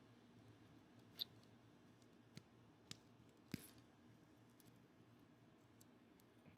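Mostly near silence with a few faint, sharp clicks: needle-nose pliers gripping and breaking the black plastic off a motorcycle clutch cable.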